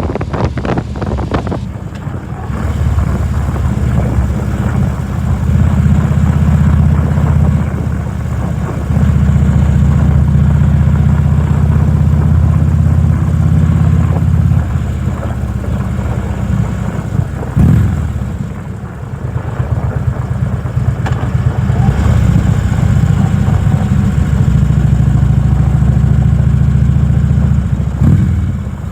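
2010 Harley-Davidson Electra Glide's V-twin engine running steadily as the motorcycle is ridden, with wind rush on the microphone in the first couple of seconds. The engine's level steps up about nine seconds in, eases off about five seconds later, and dips briefly around eighteen seconds before picking up again.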